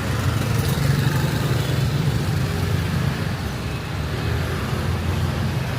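Busy street traffic: a steady low rumble of motorbikes and cars passing close by.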